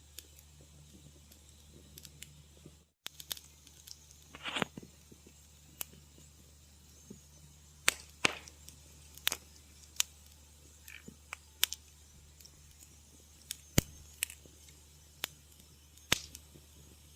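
Wood fire crackling in a fireplace: irregular sharp pops and snaps, one or two a second, over a steady low hum. There is a short hiss about four and a half seconds in, and the sound cuts out completely for an instant about three seconds in.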